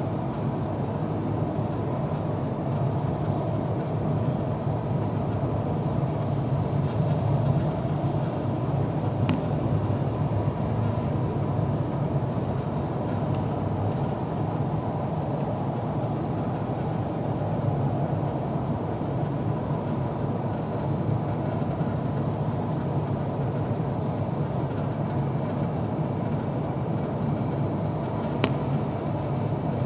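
Steady cabin noise of an Airbus A350-900 airliner in flight: an even rush of airflow with a low hum from its Rolls-Royce Trent XWB-84 engines and a faint steady tone. Two faint clicks, one about a third of the way in and one near the end.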